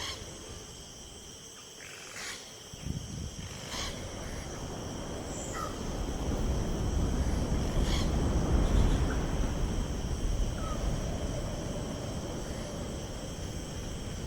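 Outdoor nature ambience: steady high tones and a few short animal calls over a low rumble that swells in the middle and then eases.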